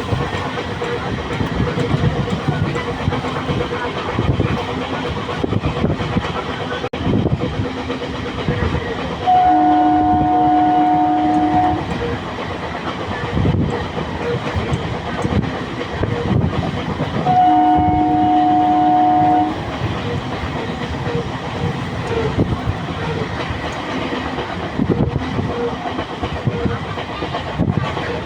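A train running with a continuous rumble of wheels on track. Its horn sounds twice, each blast a steady two-tone chord lasting about two seconds, the first about nine seconds in and the second about seventeen seconds in.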